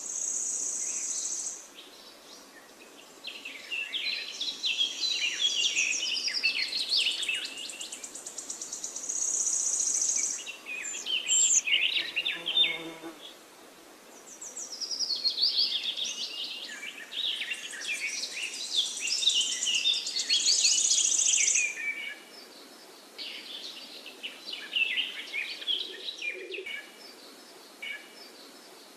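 Forest birds singing and chirping in overlapping, varied phrases, with a high insect-like buzzing that swells and fades several times.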